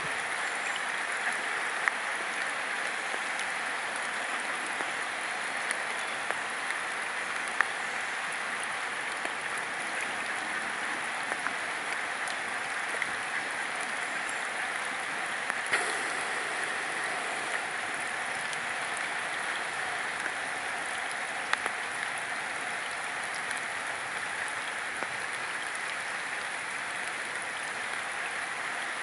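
Rain falling steadily onto a pond's surface: an even, continuous hiss with a few sharper ticks of heavier drops.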